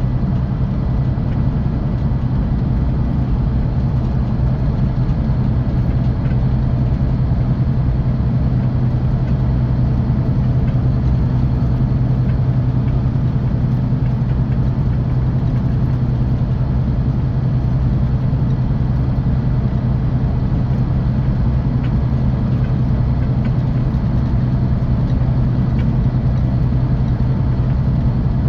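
Scania K450 coach's diesel engine running steadily, heard from inside the bus as an even, unchanging low drone with a constant rush of noise over it.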